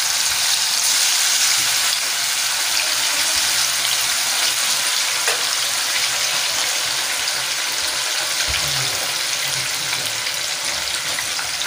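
Marinated chicken pieces frying in hot oil on high flame, a steady sizzle with fine crackling.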